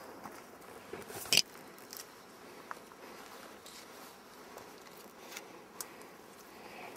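Quiet background hiss with a few scattered sharp clicks and knocks, the loudest about a second and a half in.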